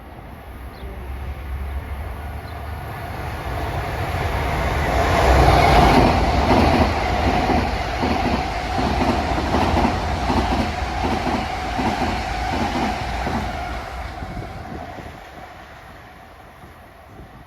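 Long Island Rail Road train passing the station: the rumble builds for about five seconds, the wheels click rhythmically over the rail joints for several seconds, then the sound fades away.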